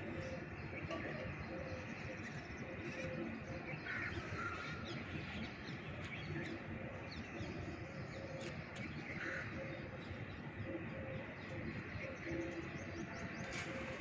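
Birds calling in the background: a string of short, repeated low notes throughout, with two short higher calls that fall in pitch about four and nine seconds in.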